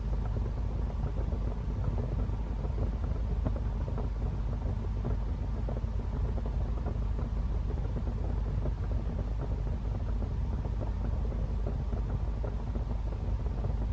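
Wood fire burning in a fireplace: a steady low rumble with frequent small crackles throughout.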